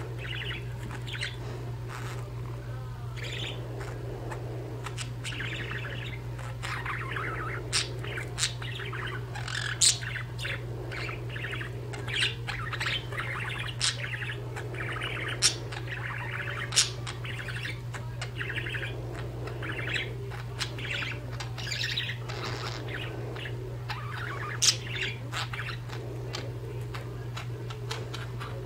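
Budgerigars chattering and chirping in a continuous warbling stream, with a few sharp clicks standing out now and then.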